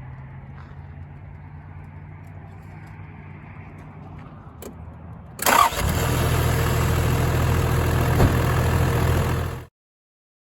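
Toyota Land Cruiser 80's diesel engine running with a low, steady hum. About five seconds in, a much louder engine and road-noise sound starts abruptly, runs steadily for about four seconds, then cuts off suddenly.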